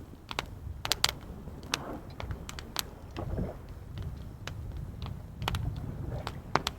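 Wood fire crackling, with sharp irregular pops and snaps, over a low steady rumble of waves.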